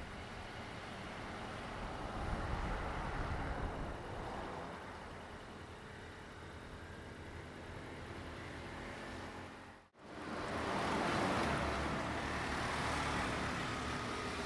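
Diesel train running past, a steady engine drone and rumble that swells and fades. About ten seconds in the sound drops out for a moment at a cut, then comes back louder.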